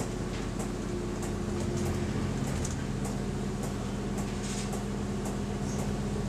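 Bus engine running, heard from inside the passenger cabin as a steady low hum. Light clicks come at a regular pace, about three every two seconds.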